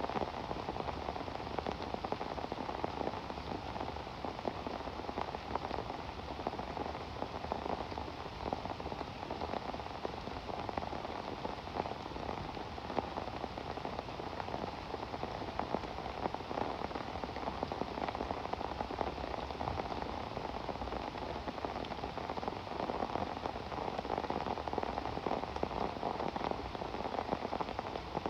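Steady rain falling, a dense continuous patter of many drops hitting surfaces.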